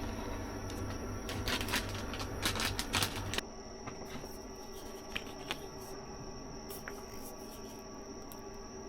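Clicks and rustling of small objects being handled. About three and a half seconds in, this stops abruptly and gives way to a quieter steady hum with a thin high whine and a few faint clicks.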